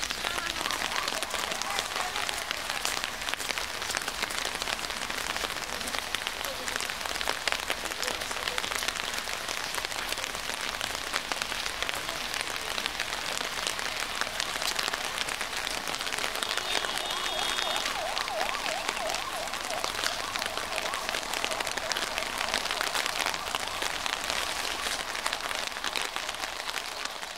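Steady rain falling, with many individual drops hitting close by.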